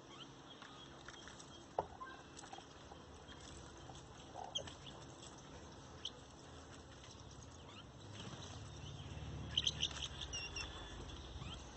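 Birds at a garden feeder: faint short high chirps, a cluster of them near the end, with a few light pecking or scratching taps.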